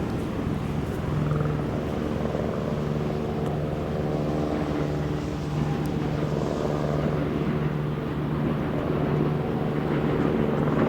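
Electric train running across a railway bridge: a steady drone with a low held hum and no clear changes.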